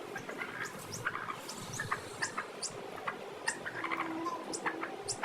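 Domestic chicks peeping: many short, high, falling peeps in quick succession, with a few lower calls from the flock among them.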